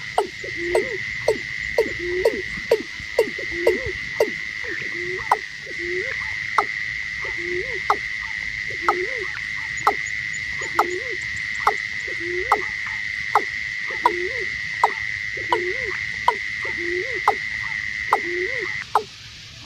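Watercock (cúm núm) calling: a series of short, low, hollow hooked notes repeating about once a second, with sharp clicks among them. A steady high-pitched whine runs underneath and stops shortly before the end.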